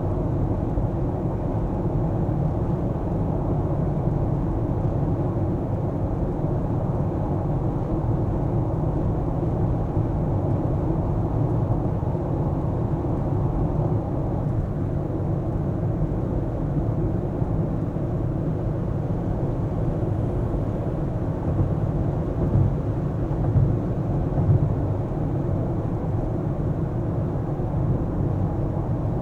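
Car driving on city roads: a steady low rumble of engine and tyre road noise, with a few brief louder bumps near the end.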